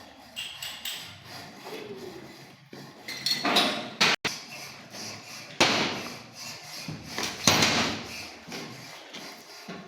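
Hand tools working metal pipe: three loud scraping strokes with sharp starts, a couple of seconds apart, with lighter knocks between.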